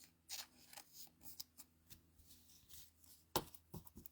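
Trading cards being handled and slid against one another in a string of short, soft swishes, with a sharper tap about three and a half seconds in and a smaller one just after.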